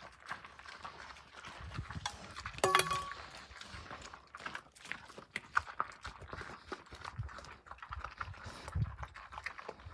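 Kunekune pigs eating kitchen scraps: irregular chewing, crunching and smacking, with one brief high call about three seconds in.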